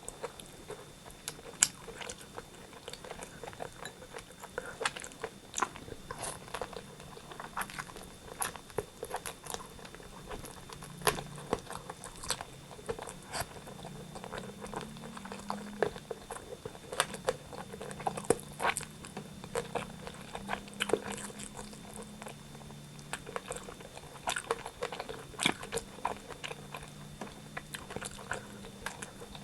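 Close-miked biting and chewing of rotisserie chicken: a dense run of short crunches and wet mouth clicks.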